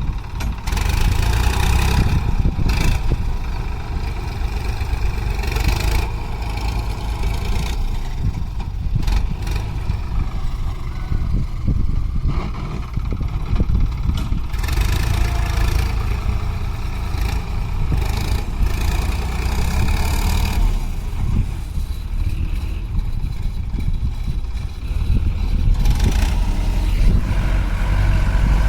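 Diesel engine of a heavy farm or earth-moving machine running steadily, with louder stretches now and then as it works.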